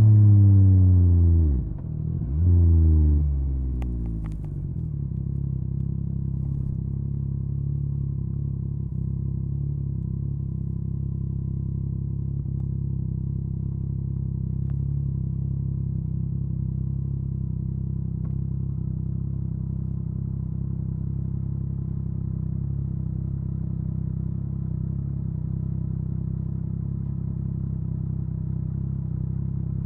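Yamaha MT-09's three-cylinder engine through an Akrapovic carbon exhaust, revs falling as it slows down, a short blip of the throttle about two and a half seconds in, then settling into a steady idle.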